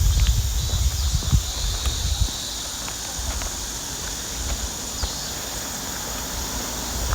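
Footsteps of someone walking along an outdoor path, with a steady high hiss of outdoor ambience. The low thuds are strongest in the first two seconds, then the sound settles to soft steps and small clicks.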